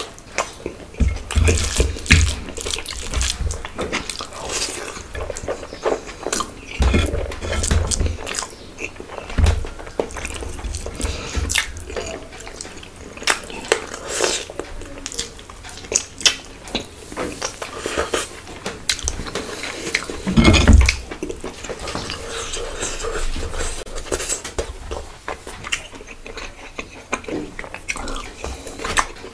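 Close-miked wet chewing and lip smacking of a mouthful of khichuri (spiced rice and lentils) eaten by hand, with irregular sticky clicks, and one louder smack about twenty seconds in.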